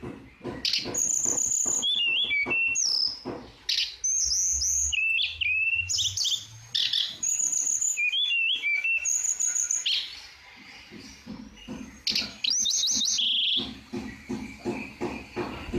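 Tledekan singing vigorously: repeated phrases of clear whistled notes and short slurs mixed with fast chattering ticks, with a brief softer lull about ten seconds in.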